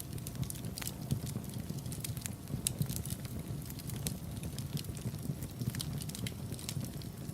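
Wood fire burning in a fireplace: a steady low rumble of the flames with many small, irregular crackles and pops.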